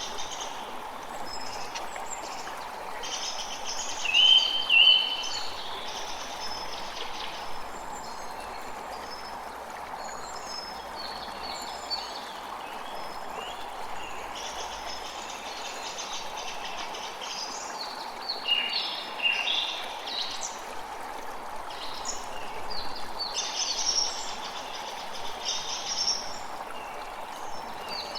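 Creek water running steadily, with songbirds chirping and singing over it in short phrases; the clearest bursts of song come about four seconds in and again in the second half.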